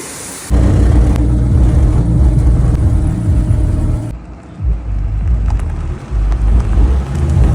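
Dodge Charger's Hemi V8 engine running loud and deep, starting suddenly about half a second in and wavering in level with a couple of brief dips partway through.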